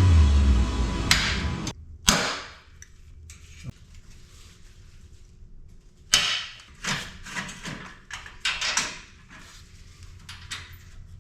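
Background music with a heavy bass ends after about a second and a half, followed by scattered knocks, clunks and scrapes of metal parts and tools being handled on a workbench.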